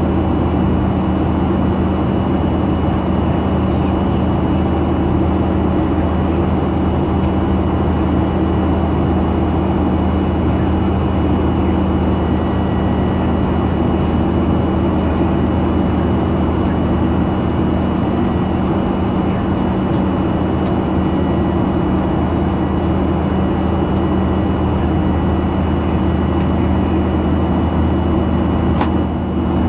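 Cabin noise of a Boeing 737-900 in flight, its CFM56-7B turbofan engines running steadily under a low drone with a thin steady whine above it. There is one brief click near the end.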